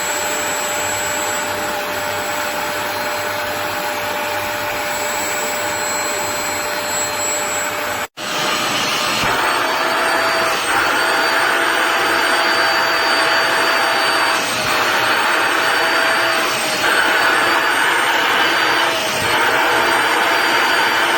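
Portable upholstery wet vacuum (spot cleaner) motor running with a steady suction whine. About eight seconds in, the sound cuts out abruptly and resumes at once, slightly higher and wavering in pitch, with a brief change in the suction noise every couple of seconds.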